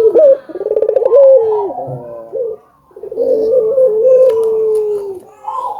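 Barbary dove (burung puter) cooing: two long drawn-out coos with slight pitch wavers, separated by a short pause about two and a half seconds in.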